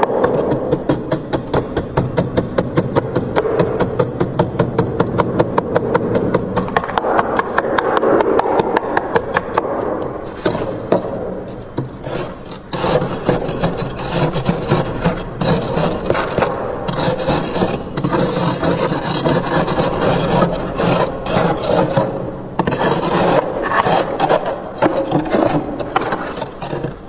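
Frost being scraped off the inside of a freezer: quick, even scraping strokes, about four or five a second, for the first ten seconds or so, then longer, rougher scrapes broken by brief pauses.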